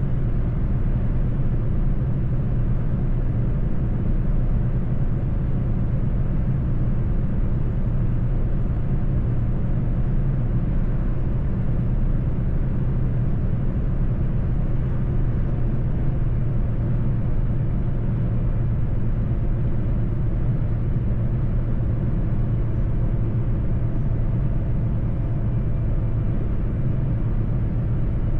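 Mercedes-Benz truck driving at a steady pace: an even, low drone of engine and road noise that holds without change.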